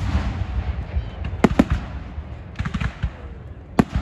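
Fireworks going off: sharp bangs, a pair about a second and a half in and another near the end, with crackling between them.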